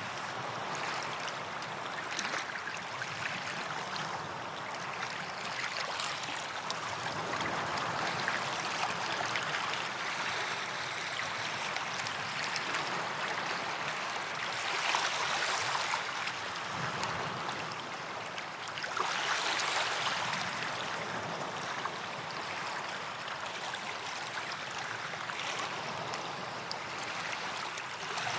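Small waves washing onto a sandy beach: a steady hiss of surf that swells several times as waves come in and break.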